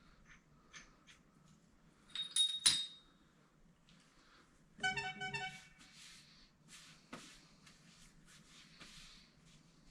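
Hand tools and steel parts of a grader blade clinking, with two sharp ringing metal clinks a few seconds in. They are followed by a brief pitched, pulsing squeak and then scattered light ticks and knocks.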